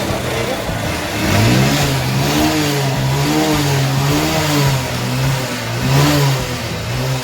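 Honda Shine 125 cc single-cylinder four-stroke motorcycle engine running and being revved: its pitch climbs about a second in, then rises and falls several times. It is a noisy engine, its noise put down by the mechanic to a worn timing chain and piston, along with heavy smoke and oil burning.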